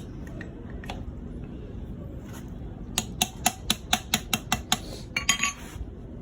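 Metal on metal during engine work: a quick run of about nine sharp clicks, roughly five a second, then a short clatter.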